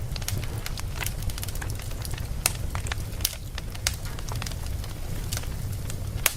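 Wood fire burning with irregular sharp crackles and pops over a steady low rumble of the flames. The sharpest pops come about two and a half seconds in and again near the end.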